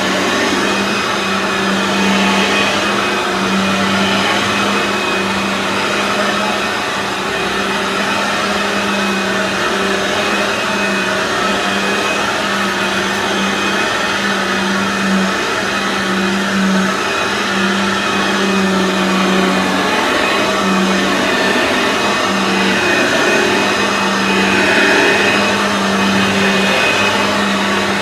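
Aeros U162C upright vacuum cleaner running on carpet: a steady motor hum over the rush of air being drawn in.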